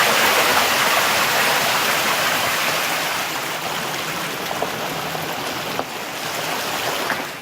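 Car driving slowly through floodwater over the road: a steady rushing and splashing of water around the tyres, easing a little about three seconds in.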